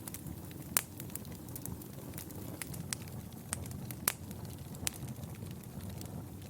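Fire burning in a fireplace, crackling: a steady low rumble with scattered sharp pops at irregular intervals, the loudest about a second in and again about four seconds in.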